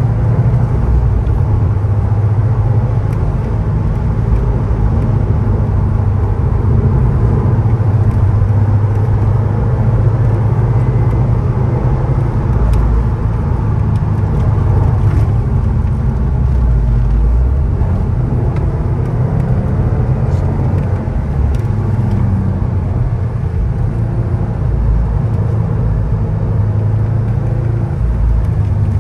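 Subaru Impreza WRX STI's turbocharged flat-four engine and tyre noise heard from inside the cabin while driving on track, a steady low drone.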